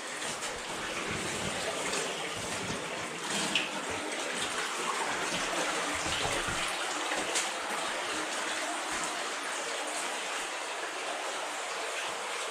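Cave stream water running steadily in a continuous rush, with a few faint knocks or splashes.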